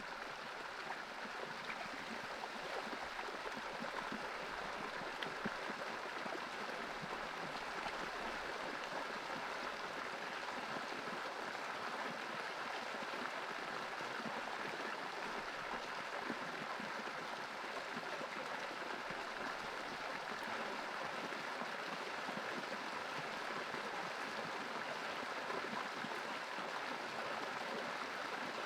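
Stream water flowing with a steady, unbroken rush.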